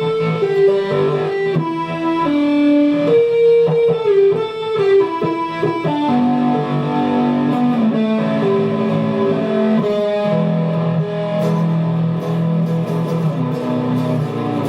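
Guitar music: a plucked guitar plays a melody of quickly changing notes, then moves to longer held notes about six seconds in.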